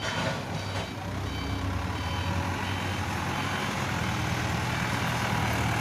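Truck's reversing alarm beeping about twice a second, fading out after a couple of seconds, over the steady hum of the diesel engine, which grows louder near the end.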